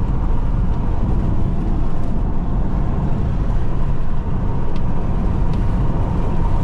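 Steady low rumble of road and engine noise inside the cabin of a Jeep Renegade diesel driven at speed on the highway, with a faint steady whine.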